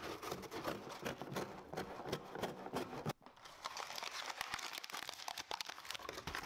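Quiet crinkling and rustling of packaging being handled, an irregular run of small clicks and crackles with a brief pause about three seconds in.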